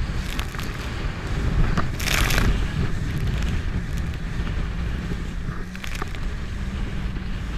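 Jet ski running on the water, its engine a steady rumble with a faint hum under heavy wind noise on the microphone. A loud hiss about two seconds in.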